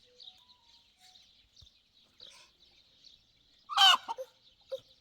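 Domestic chicken giving one short, loud squawk a little under four seconds in, over faint continuous chirping of small birds.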